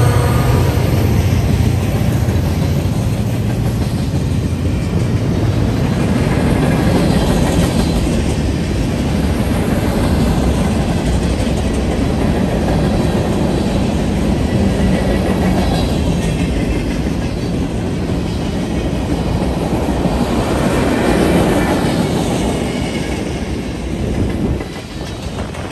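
A BNSF diesel locomotive's engine drone fades in the first couple of seconds as it passes. The steady rumble and clickety-clack of a freight train's cars rolling past follows, dropping a little in loudness near the end.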